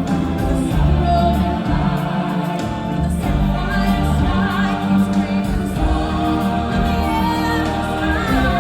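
Show music with a choir singing, many voices holding long notes over a steady accompaniment.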